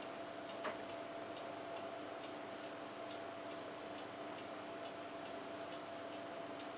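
Homemade paper-and-wood briquettes burning in a fireplace, crackling with small, somewhat irregular ticks, about two to three a second, and a slightly louder pop just before the first second. A faint steady hum runs underneath.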